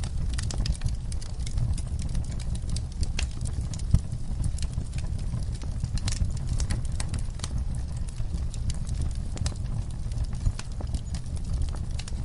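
Campfire crackling: irregular snaps and pops over a steady low rumble of burning wood.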